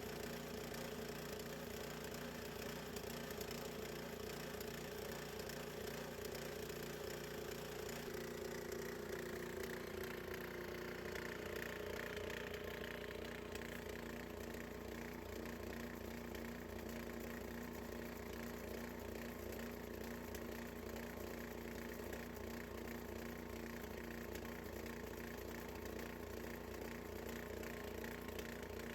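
Gas engine of a Harbor Freight portable bandsaw mill running steadily, its tone shifting about ten seconds in.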